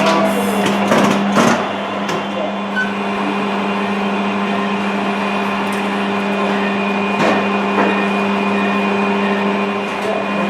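Metal lathe running with a steady motor hum. A few short clicks come in the first two seconds and another about seven seconds in.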